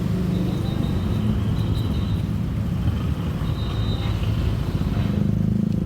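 Steady low rumble of motor vehicle engines running, as vehicles unload from a car ferry, with a faint high whine coming and going.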